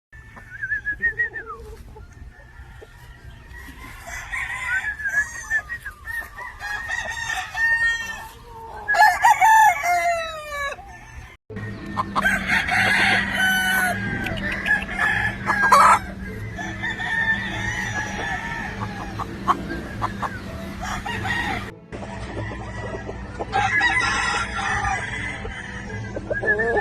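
Gamefowl roosters crowing repeatedly, with chickens clucking between the crows. The sound breaks off abruptly twice.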